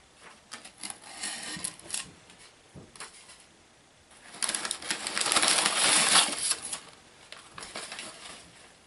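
Packaging of a shipped snake being opened by hand: scattered clicks and small rustles, with a loud rustle lasting about two seconds around the middle.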